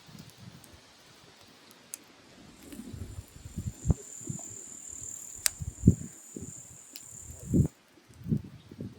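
Firewood burning in a grill, crackling with a few sharp pops and low rumbles. A thin, steady high-pitched hiss or whistle runs for about five seconds in the middle and then stops.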